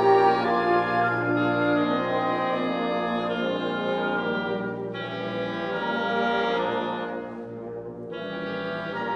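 Wind ensemble of French horns and woodwinds playing sustained chords in a classical piece, easing off briefly near the end before a new chord enters.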